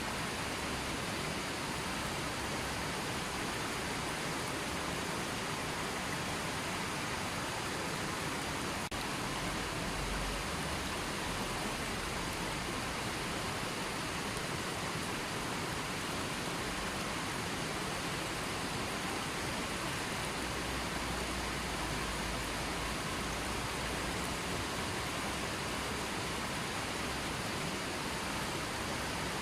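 River water flowing, a steady even rush with no pauses.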